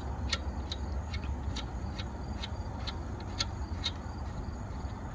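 Light, irregular clicks about twice a second as a loosened alternator nut is turned off its stud by hand, over a steady low rumble.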